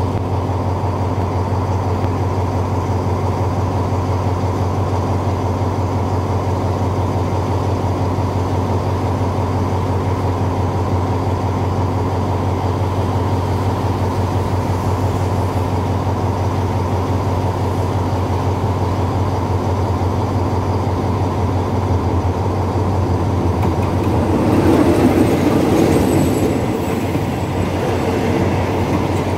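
A steady low hum runs throughout. From about 24 seconds in, a passenger train rolls close past, and its wheels and carriages clatter and rumble over the rails, loudest around 25 to 26 seconds.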